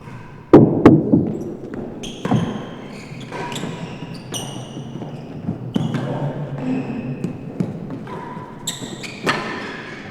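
Real tennis rally in an enclosed hall court: the ball cracks off rackets and walls in sharp, echoing hits, the loudest two about half a second in, with high squeaks between the shots.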